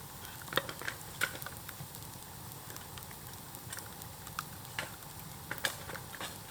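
Bamboo bonfire crackling, with irregular sharp pops over a steady sizzling hiss.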